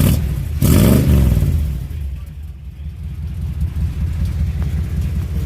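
The 1955 Chevy's old engine idling, with a short rev about half a second in that falls back to a steady idle. The engine is worn out, with a quiet lifter noise.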